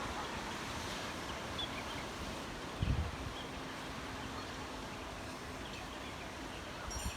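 Seashore ambience: a steady wash of sea and wind, with a low buffet of wind on the microphone about three seconds in.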